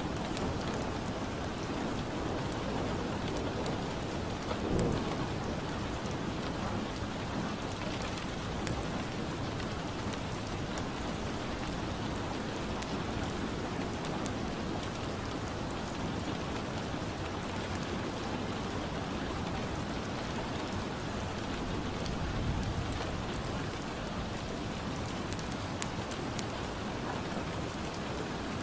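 Steady rain ambience with the scattered pops of a crackling fireplace, and a low rumble swelling twice.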